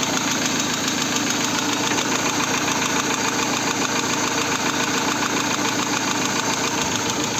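VAZ 16-valve four-cylinder engine running with a steady, even knock. It knocks when hot with low oil pressure, despite new camshafts, oil pump, bearing shells and hydraulic lifters.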